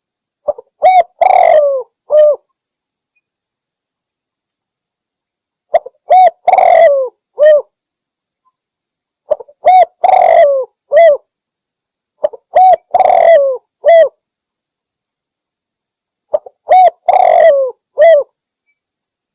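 Spotted dove (derkuku) cooing, five phrases about three to four seconds apart. Each phrase is a couple of short coos, a longer, rougher coo and a short closing coo.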